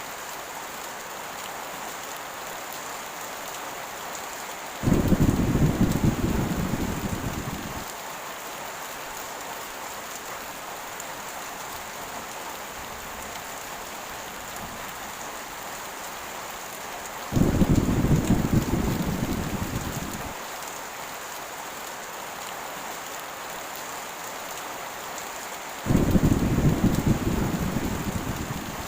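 Heavy rain falling steadily, with three low rumbles of thunder. Each starts suddenly and fades over about three seconds: about five seconds in, just past the middle, and near the end.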